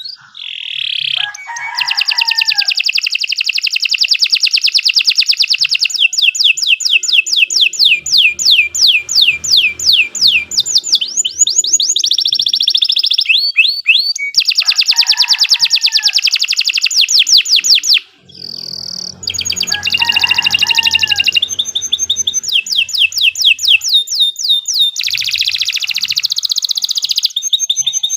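Domestic canary singing a long, unbroken song of rapid trills and rolls, each phrase a fast run of repeated notes, with a brief pause about 18 seconds in.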